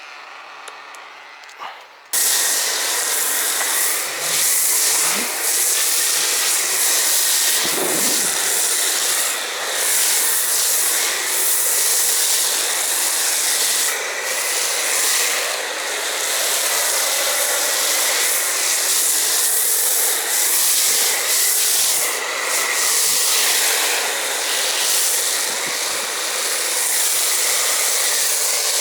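Pressure washer spraying snow foam through a foam cannon: a loud, steady hiss of spray that starts suddenly about two seconds in, just after a click, and keeps going with only small dips.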